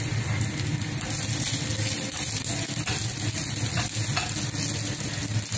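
Chopped red onion and minced garlic sizzling steadily in oil in a nonstick frying pan, with a spatula stirring them in the second half.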